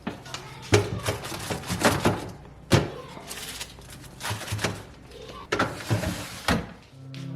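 Household items being handled and set down: a string of knocks, clicks and clatters, with sharper knocks about a second in, near three seconds and around six seconds. Music starts near the end.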